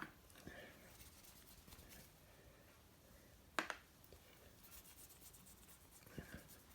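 Near silence broken by a few faint clicks and light scraping as filler is worked onto a ceramic bowl by hand. The sharpest click comes about halfway through.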